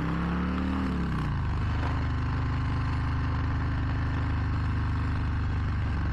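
Harley-Davidson Low Rider ST's Milwaukee-Eight V-twin engine: the revs drop over the first second as the bike slows, then it settles into a steady idle while stopped at a traffic light.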